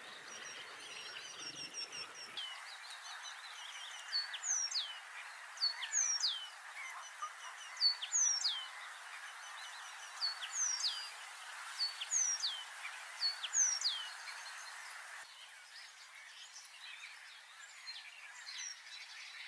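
Small birds calling: a high whistle that falls sharply in pitch, each time just after a short higher note, repeated about six times every second or two, over faint background chirping.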